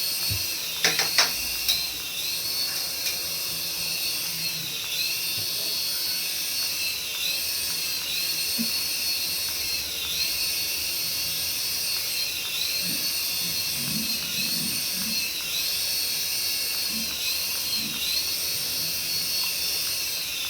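High-pitched whine of a remote-control toy's small electric motor, running steadily with a regular rise and dip about every second and a half, and a few sharp clicks about a second in.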